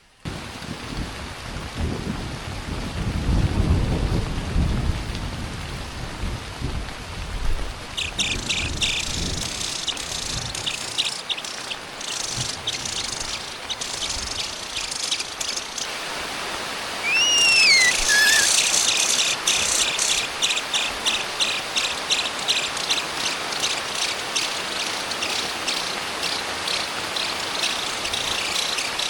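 Heavy rain falling steadily, with a low rumble of thunder in the first several seconds. About eight seconds in, nestlings start rapid, high begging cheeps. Past the halfway mark a single adult bird's whistled call rises and falls, and the chicks' cheeping grows louder and keeps going.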